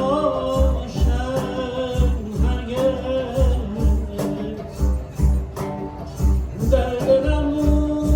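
Live ensemble of erhu, guzheng, Persian tar, tonbak and guitar playing a Persian-style piece: a wavering, sustained melody over plucked strings, with low hand-drum strokes about twice a second.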